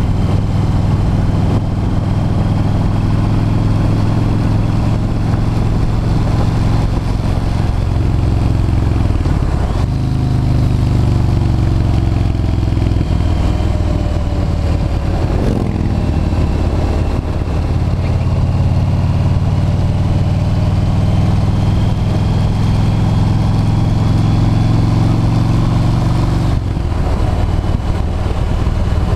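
V-twin cruiser motorcycle engine running under way with a steady rush of wind. The engine note shifts about a third of the way in, again around the middle, and near the end.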